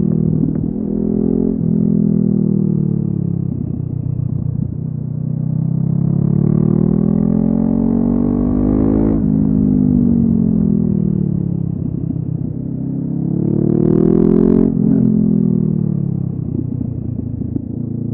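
Honda CB500F parallel-twin engine through a LeoVince aftermarket exhaust, heard on the move as the motorcycle is ridden. The revs climb twice under throttle, about a third of the way in and again near the end, each climb ending in a sudden drop in pitch. Between the climbs the revs wind down gradually.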